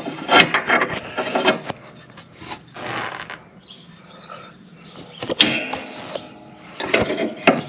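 Metal parts of a lawn tractor's mower deck lift linkage being handled: irregular clinks, knocks and scrapes of steel on steel.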